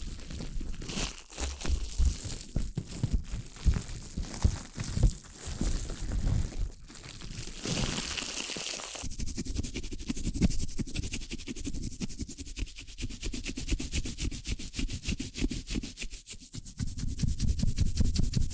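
Close-miked ASMR trigger sounds with no talking. Irregular crackling, tapping and rustling fill the first half. About nine seconds in, this gives way to fast, even scratching or brushing strokes.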